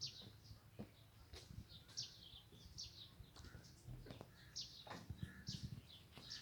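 Faint, high bird chirps repeating irregularly, about ten short notes that each fall in pitch, with a few soft knocks in between.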